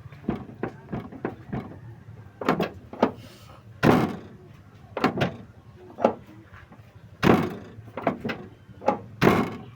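Rear door of a Nissan Serena van being worked open and shut again and again: latch clicks and knocks, with a few heavier slams about four, seven and nine seconds in, as the door catches on its newly repaired striker lock.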